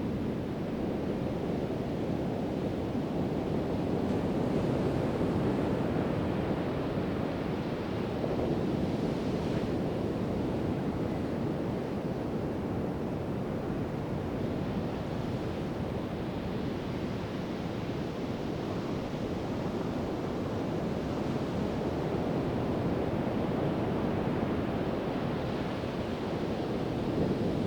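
Pacific Ocean surf breaking and washing up the beach, a steady rushing wash with gentle swells as waves come in.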